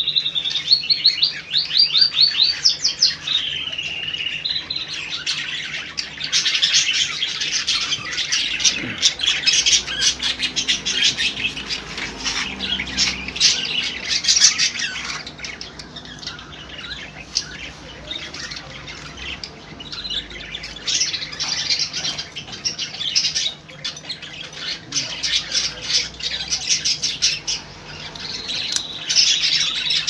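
Small cage bird chirping and squawking in quick sharp calls, opening with a fast trill, thinning out for a few seconds midway, then busy again.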